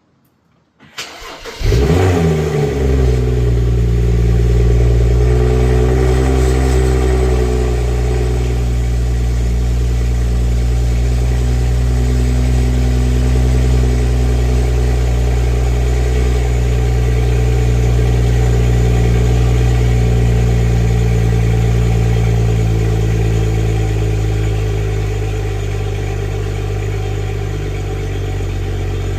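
BMW N55 turbocharged inline-six in a 335 cranking briefly and catching about two seconds in, flaring, then holding a steady high cold-start idle. The idle drops slightly in level near the end as it begins to settle.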